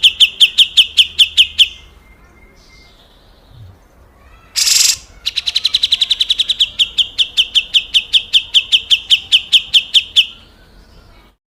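Grey-cheeked bulbul (cucak jenggot) giving its harsh 'besetan' call: long runs of rapid, evenly repeated notes, about seven a second, each run falling slightly in pitch. One loud, harsh, rasping burst about half a second long comes in the pause between the two runs.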